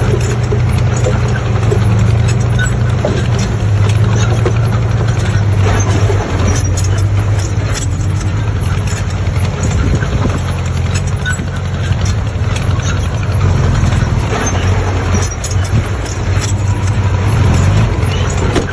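Heavy construction machine's diesel engine running steadily under load, with a dense, irregular clatter of metal knocks over it.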